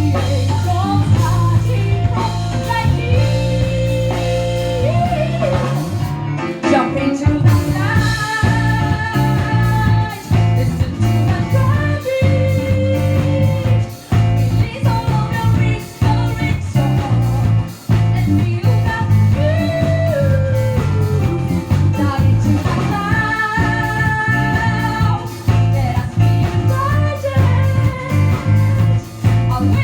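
A rock band playing a song: a singer holds long sung notes over electric guitar, bass and a steady drum beat.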